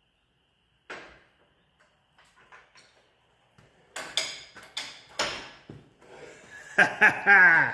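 Engine hoist and chain lowering a 454 big-block engine into place: a single knock about a second in, then a run of metal clanks and scrapes from about four seconds in, and a short falling pitched sound near the end.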